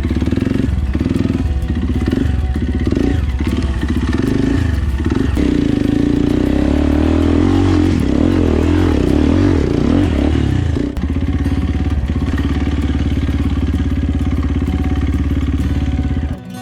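Kawasaki KLX 230 dirt bike's single-cylinder four-stroke engine running while being ridden, its revs rising and falling through the middle, then holding steady. The sound cuts off abruptly near the end.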